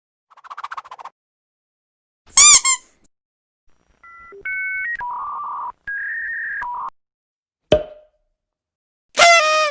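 A string of separate short sound effects: a brief faint rattle, a loud short sound with bending pitch, about three seconds of electronic beeping tones that step between pitches, a sharp click, and another short pitched burst near the end.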